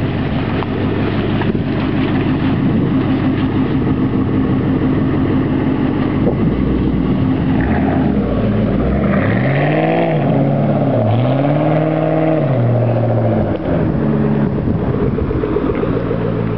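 2008 Mustang GT's 4.6-litre three-valve V8 idling through a muffler-delete exhaust, then revved twice in the middle, the pitch climbing and falling back each time before it settles to idle again.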